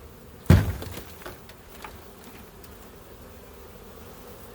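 Honey bee swarm buzzing steadily, with one sharp thump about half a second in and a couple of lighter knocks after it as a frame is shaken and knocked to drop the bees into the hive box.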